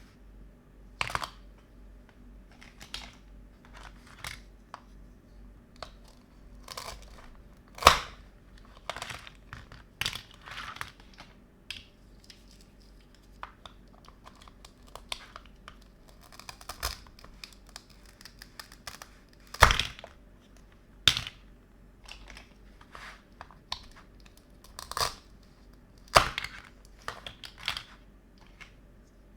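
Plastic toy kitchen pieces being handled and set down close up, with irregular clicks and knocks and some crinkling, a few knocks louder than the rest.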